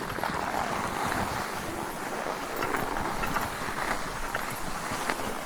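Skis sliding steadily over packed snow while being towed up a T-bar lift: a continuous hiss with small scattered clicks.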